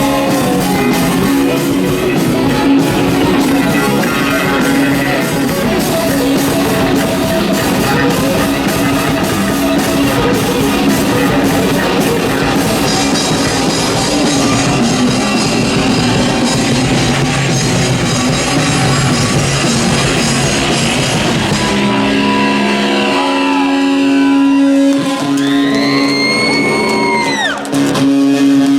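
Rock band playing live with electric guitars and drum kit. Near the end the drums drop out, leaving held guitar chords and a high tone that slides up and back down.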